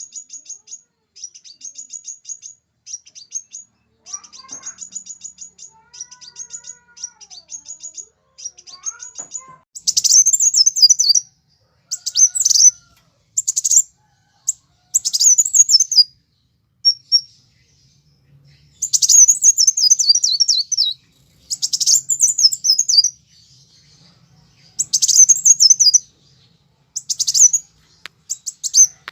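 Sunbirds calling, edited together as a birdsong-training track. First come short runs of rapid, high-pitched ticking trills. From about ten seconds in, louder sharp chittering bursts of a second or two follow every couple of seconds.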